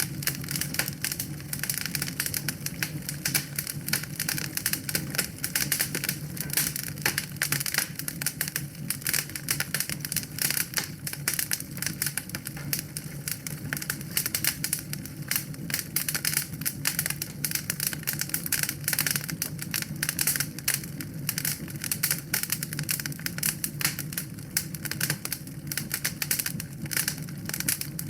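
Wood fire crackling steadily in a fireplace: a dense, irregular run of small pops and snaps over a low, steady rush of flame.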